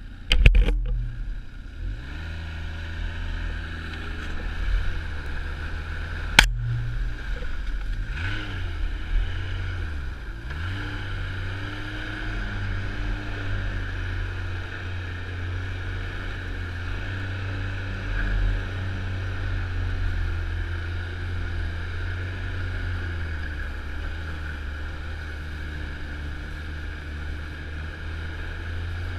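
Snowmobile engine running steadily under way, its revs rising and falling a few times about a third of the way in. A sharp knock about six seconds in.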